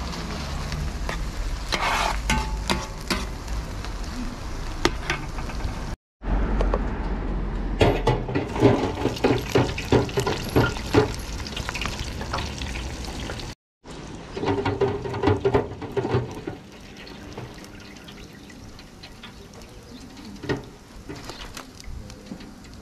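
Food frying: beef and green beans sizzling in a large round pan, stirred with a metal ladle that clicks and scrapes against it, then oil bubbling in a deep fryer with a wire basket. The sound cuts out abruptly twice between shots, and the last part is quieter.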